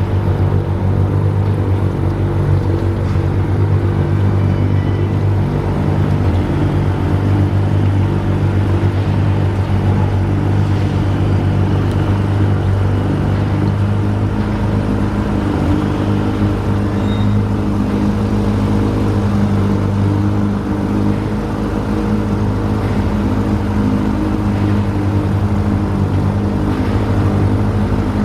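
Steady engine drone of a vehicle running at a constant speed: an even low hum over a haze of noise, with no rise or fall in pitch.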